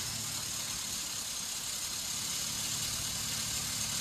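Maruti Suzuki WagonR engine idling steadily just after a start, with the unusual noise that has appeared over the last few months: a part the owner calls a 'garari' (pulley) keeps running for a while after each start before it stops, and he cannot say what the fault is.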